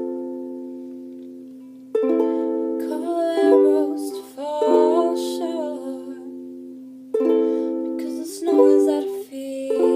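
Ukulele chords, each struck and left to ring and fade, with a few picked notes between them.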